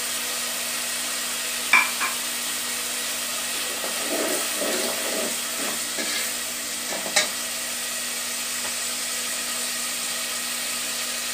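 Chopped onions frying in ghee in a metal pot, a steady sizzle, while a metal slotted spoon stirs and scrapes through them. The spoon clinks sharply against the pot about two seconds in and again around seven seconds.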